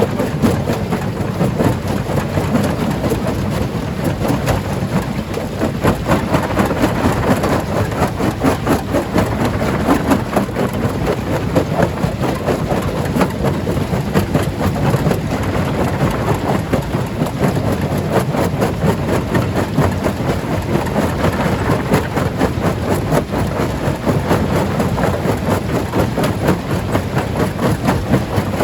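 Stone crusher running, a continuous dense clatter of rocks being broken and knocking together over a heavy engine drone.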